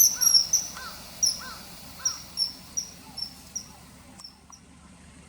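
Common kingfisher giving its shrill, very high-pitched calls in a rapid series of several a second, loudest at the start and fading out after about four seconds. A few lower, arching whistled notes are mixed in during the first two seconds.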